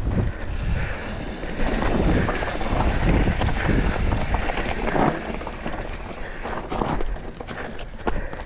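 Wind buffeting the microphone of a camera on a moving mountain bike, with an uneven rumble and irregular knocks from the ride over rough trail.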